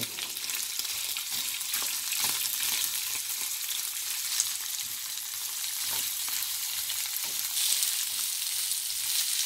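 Sliced onions and diced chicken breast sizzling in oil in a nonstick frying pan while being stirred with a wooden spatula, which scrapes and taps the pan now and then.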